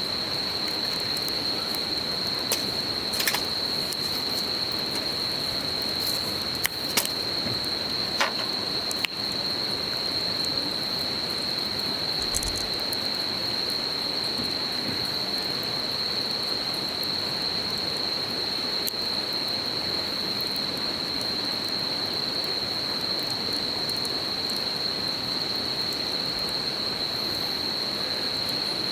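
Wood campfire crackling, with a handful of sharp pops in the first nine seconds or so, over the steady rush of a river and a continuous high, even drone of insects.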